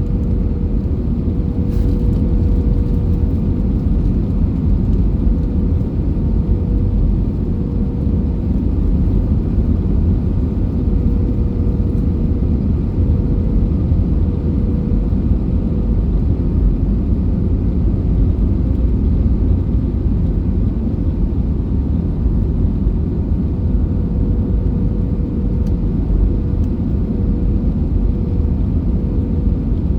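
Airbus A320 noise, a steady low rumble with a faint steady hum above it and no change in level.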